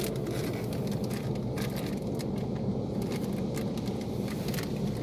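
Istobal M'Wash 3 Pro rollover car wash machine running, a steady low rumble with irregular crackling spatters over it.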